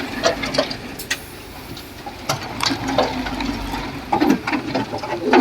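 Komatsu D31P crawler dozer running, its diesel engine humming under irregular clanks and knocks from the steel tracks and blade.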